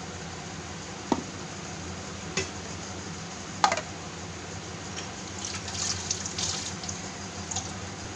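Tomato paste frying in oil in an aluminium pressure cooker: a steady sizzle with a few sharp pops, crackling more thickly a little past the middle.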